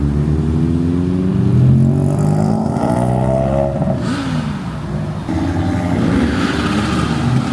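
Car engines accelerating and revving, the engine note climbing, dropping and climbing again.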